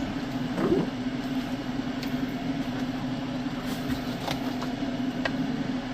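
A steady mechanical hum, with a few faint light clicks near the end.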